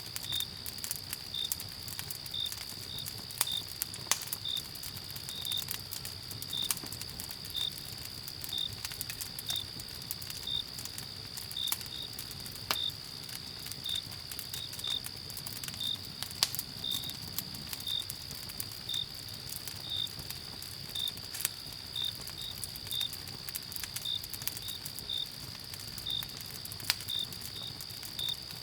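Crickets: a steady high-pitched trill with a single cricket chirping about once a second, over the sharp, irregular crackles and pops of a campfire.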